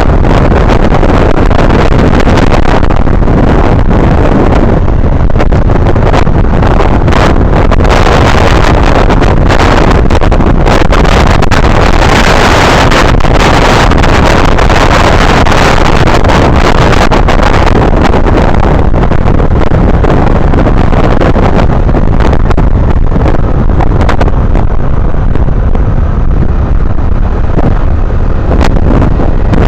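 Honda Navi mini bike riding along, its small single-cylinder engine running under heavy wind noise on the microphone, loud and steady throughout.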